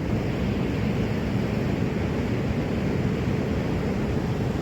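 Steady rushing noise, heaviest in the low range, running evenly without breaks.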